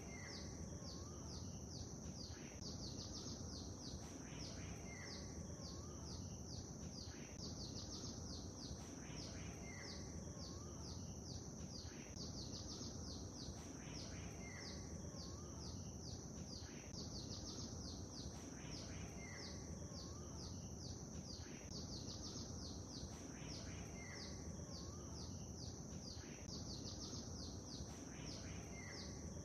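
Birds chirping over a steady low rush of water ambience, with a dense high twitter throughout. The same short call returns about every two and a half seconds, like a repeating loop.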